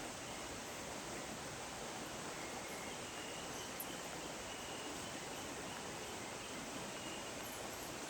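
Steady rain falling: an even, unbroken hiss, with a few faint short high tones now and then.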